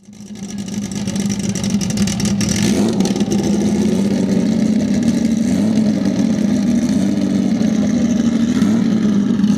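Modified Nissan Laurel's RB straight-six engine held at high revs for a burnout, its pitch wavering slightly. The sound fades in over the first second or so, then holds steady.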